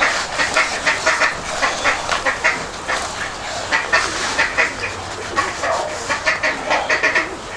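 Domestic waterfowl calling: a dense run of short, repeated nasal calls, several a second, continuing throughout.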